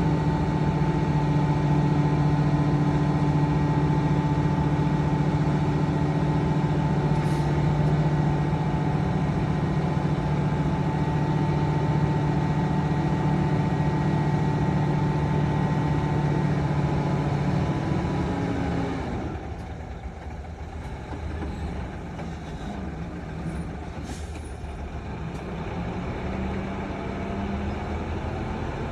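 Heavy diesel engine running steadily under load with a strong, even drone, then dropping away about 18 seconds in to a quieter, lower running sound.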